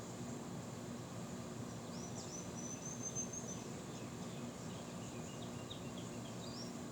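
Steady wind noise, with a high chirping trill about two seconds in and a few shorter high chirps near the end.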